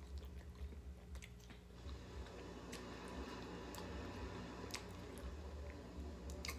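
A person chewing and biting garlic parmesan chicken wing meat off the bone, close to the microphone, with scattered wet mouth clicks and smacks.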